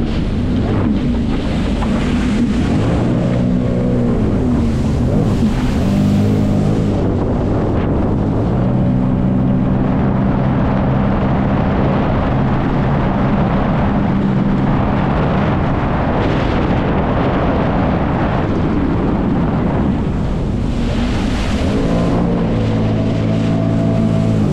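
Jet ski engine running under way, its note shifting up and down several times as the throttle changes, over a constant rush of water spray and wind on the microphone.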